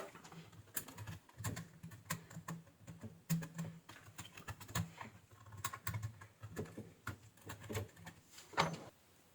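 Irregular sharp clicks and taps, a few each second, over a faint low hum.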